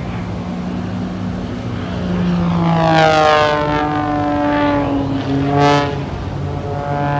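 Propeller aerobatic airplane's engine flying past, its pitch dropping as it goes by about three seconds in, with a loud surge a little after five seconds and the pitch rising again near the end.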